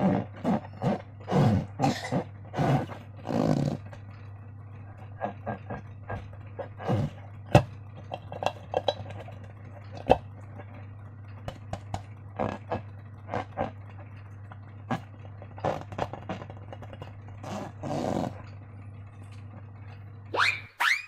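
Slime being squeezed and worked by hand: irregular wet squelches, pops and rubbery squeaks, thickest in the first few seconds and sparser after, over a steady low hum. A short squeak near the end, then the sound cuts off.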